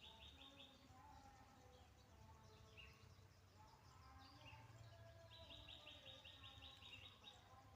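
Faint outdoor ambience with birds: a rapid, pulsing high trill near the start and again from about five seconds in, with a few short chirps in between.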